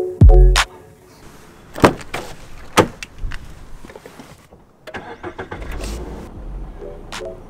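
A car engine started by push-button ignition, catching and then running steadily in the second half. Before it, two sharp clicks, and a few notes of background music right at the start.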